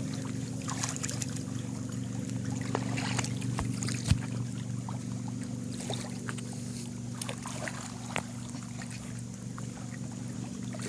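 A boat engine running with a steady hum, with faint small splashes of water over it.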